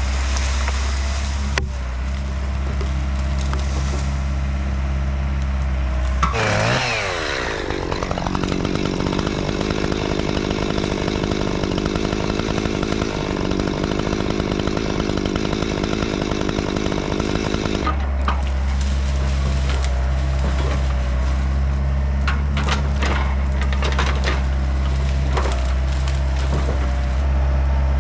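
A Yanmar B50 excavator's diesel engine runs steadily. For about eleven seconds in the middle, a louder, higher-pitched buzzing motor sound takes over. After that the engine settles back, with repeated sharp cracks of hickory wood splintering as the fallen tree is broken up.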